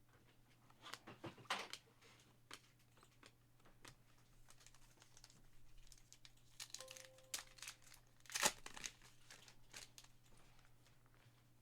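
Faint crinkling and tearing of trading-card pack wrappers being opened, with short clicks and rustles of cards being handled.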